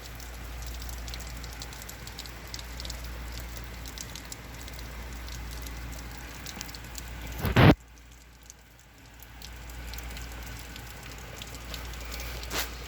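Heavy rain falling steadily. A single loud thump comes a little past halfway through, after which the rain sounds much fainter for a couple of seconds before building back up.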